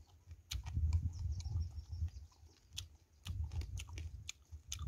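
Close-up chewing of crispy fried field mouse: wet mouth sounds with many sharp crunches of the fried meat and bones.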